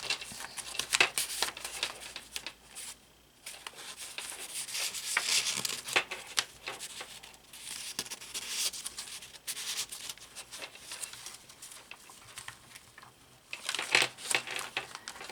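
Paper pages and card inserts of a handmade journal being turned and handled: irregular rustling and crinkling with small taps, pausing briefly about three seconds in.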